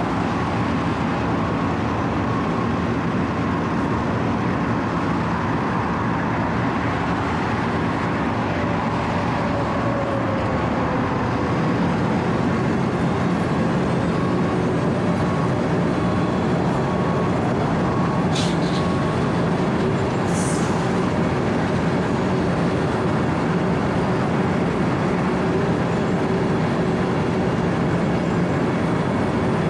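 Wirtgen W 120 CFi 4-foot cold milling machine running steadily, its diesel engine and rotating cutting drum grinding up asphalt in a continuous dense din. Two brief high-pitched squeaks stand out about two-thirds of the way through.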